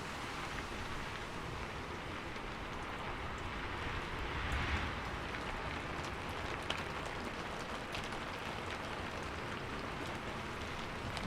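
Steady rain falling on a roof: an even hiss with a few single drops ticking through it, swelling slightly about four and a half seconds in.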